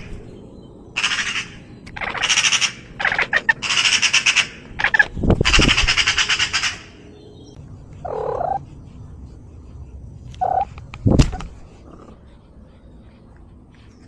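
A bird squawking: a run of harsh, high calls over the first seven seconds, then two shorter, lower calls and a single thump about eleven seconds in.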